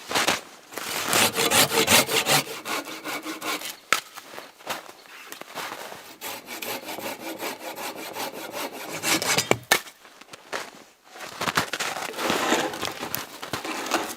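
Wood being cut with a hand saw in quick repeated strokes, with a short pause about two-thirds of the way through before the sawing resumes.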